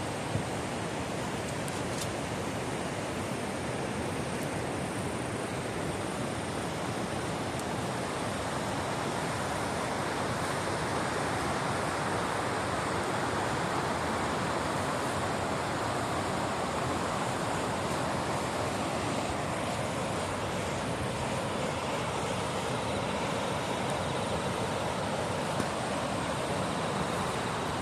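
Driftwood campfire burning, with a few sharp pops and crackles over a steady rushing noise.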